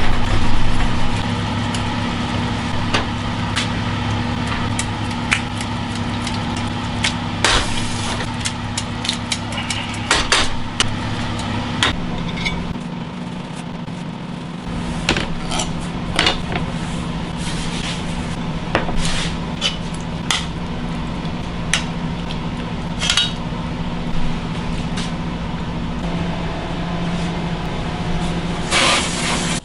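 Kitchen work: scattered clinks and knocks of utensils against cookware over a steady machine hum. The hum changes about twelve seconds in and again a few seconds before the end.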